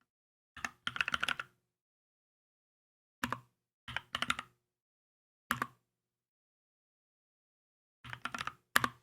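Typing on a Keychron K2 mechanical keyboard in short bursts of a few keystrokes each, with pauses of a second or two between bursts.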